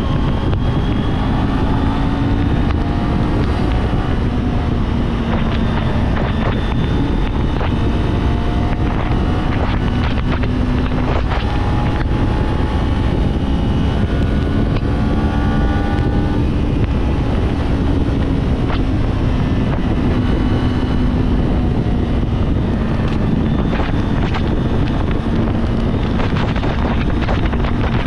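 Kawasaki Z400's parallel-twin engine running at a fairly steady cruise, its pitch drifting gently up and down, under heavy wind noise on the microphone.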